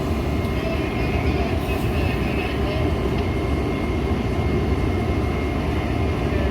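Steady low rumble of a Metra commuter train, with a faint steady high-pitched whine above it.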